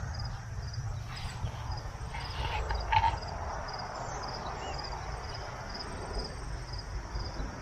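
Crickets chirping in a steady rhythm, about two short high chirps a second, over a low rumble, with one brief louder sound about three seconds in.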